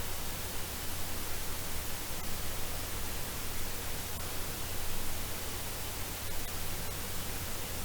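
Steady hiss of background noise with a low, even hum underneath.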